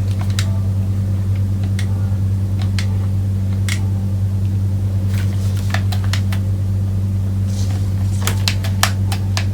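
Steady low electrical hum with light plastic clicks and taps scattered over it, growing denser near the end, as a small USB transmitter is handled and fitted back into its plastic casing.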